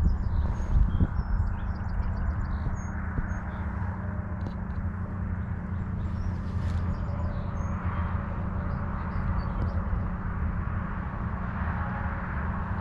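Wind rumbling on the microphone in an open field, with scattered short bird chirps high above it, most of them in the first few seconds.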